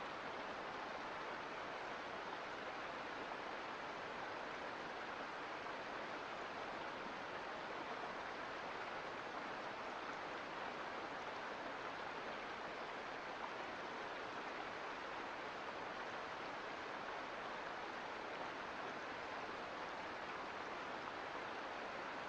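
Mountain creek flowing over rocks: a steady, even rush of water with no changes.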